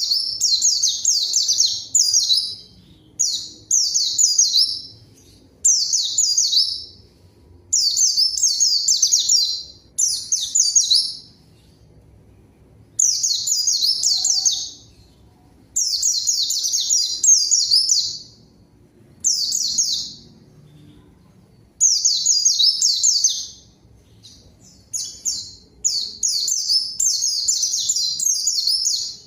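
A white-eye (pleci) singing hard in repeated fast, high twittering phrases, each one to three seconds long with short pauses between them. This is the vigorous 'gacor' song used as a lure to make other white-eyes answer.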